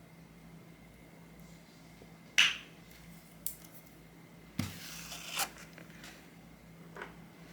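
Small objects being handled on a hard surface: a sharp click about two and a half seconds in, a light tick, then a knock followed by about a second of scraping, and a faint tick near the end.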